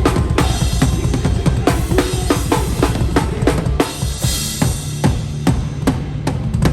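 Live hardcore band playing loud, with the drum kit to the fore: fast kick drum and snare hits over heavy low-end guitars and bass, and a ringing cymbal crash washing over the beat about four seconds in.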